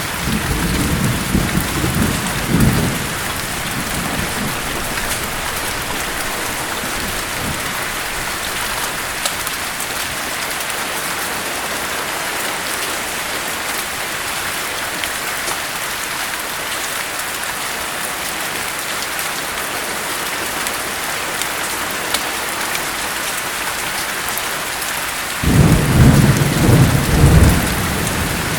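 Steady heavy rain with thunder rumbling low for the first few seconds, dying away, then rolling in again loudly a few seconds before the end.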